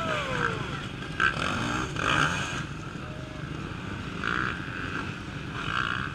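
Off-road racing motorcycle engines revving up and down in short surges as the bikes work through the course, with a falling rev near the start.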